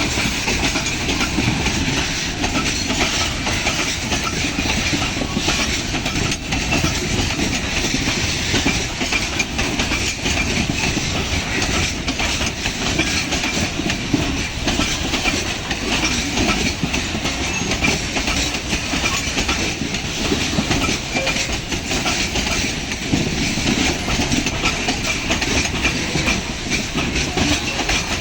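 Loaded ore freight train wagons rolling past, with a steady clatter of steel wheels over the rail joints.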